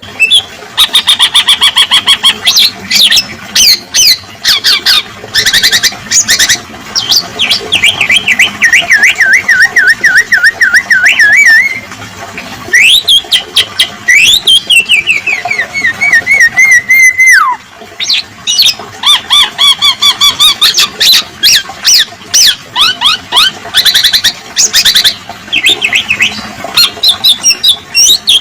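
Continuous loud songbird singing: rapid chattering trills mixed with whistled notes and wavering phrases that slide down in pitch, with a brief pause a little past halfway.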